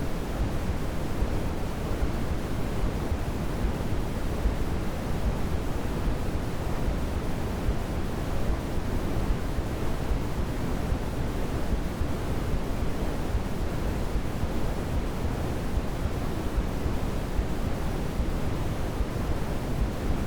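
Steady, unbroken white noise from a baby sleep-aid track, with most of its weight in the low end, so it sounds like a deep rush rather than a bright hiss.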